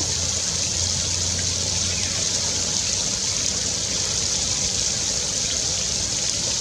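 Steady rush of flowing water, with a low hum underneath that fades out about two seconds in.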